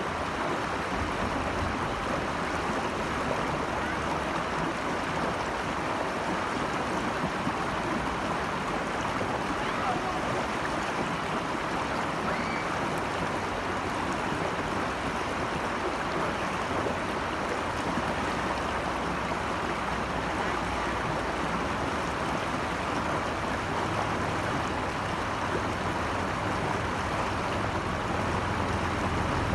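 Stream water rushing steadily, an even unbroken hiss of flowing water. A low rumble builds near the end.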